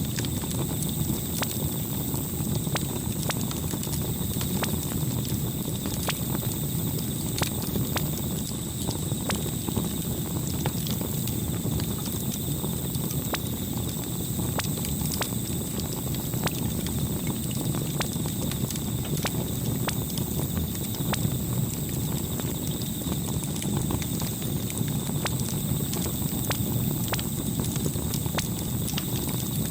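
Campfire burning steadily: a low rumble of flames with frequent irregular sharp crackles and pops from the burning wood.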